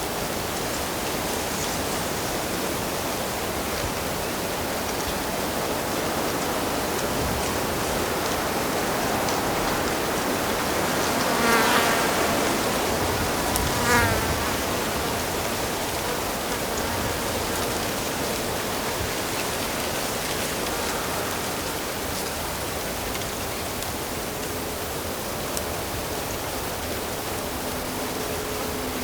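Steady rush of a stream or small waterfall, with an insect, likely a fly, buzzing close past the microphone twice about halfway through.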